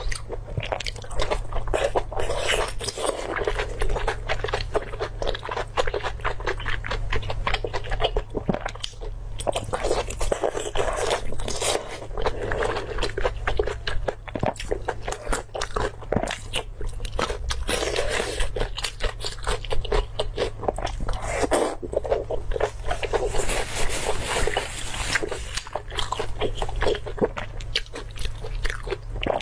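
Eating sounds: chewing and biting of soft, chewy braised meat, with many small smacks and clicks in quick, irregular succession and the crunch of a raw garlic clove being bitten about midway.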